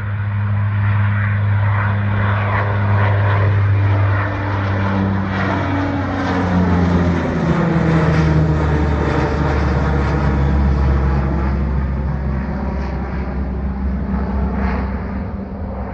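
Skymark Boeing 737-800 jet engines at takeoff power as the airliner climbs past: a loud, steady drone with low humming tones that drop in pitch as it goes by, loudest about halfway through. The onlooker hears it as an unusual noise, and a bird strike is suspected.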